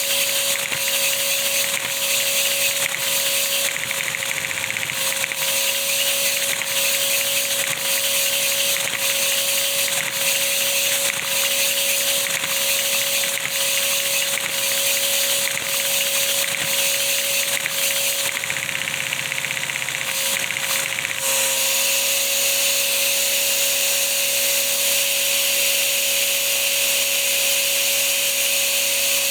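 A three-cylinder cammed Lego vacuum engine running on suction from a vacuum cleaner. The cleaner's motor gives a steady whine, with even ticks from the engine at a little over one a second. The ticking stops about two-thirds of the way through while the whine goes on.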